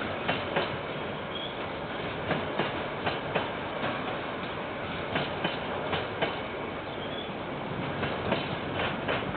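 Train wagons rolling past, wheels clacking over rail joints in quick pairs every second or so over a steady rolling rumble, heard through a security camera's microphone.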